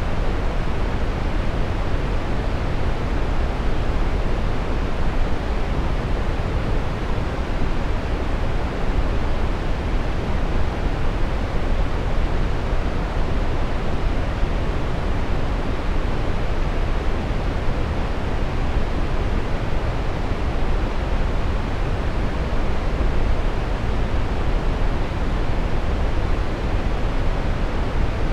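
Steady brown noise: an even, unchanging hiss weighted toward the low end, like a deep rumble with the highs rolled off.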